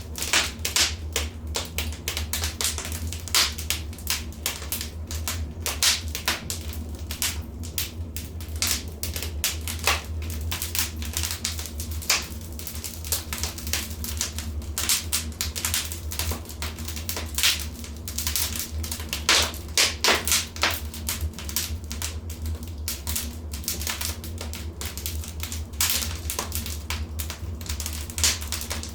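Wood fire burning in a fireplace, crackling and popping irregularly over a steady low rumble, with a few louder clusters of pops.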